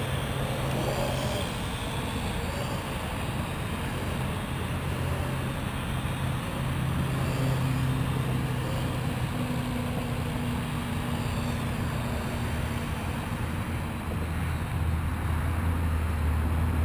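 Parrot AR.Drone quadcopter's four propellers humming steadily in flight, with the hum dropping to a lower pitch near the end.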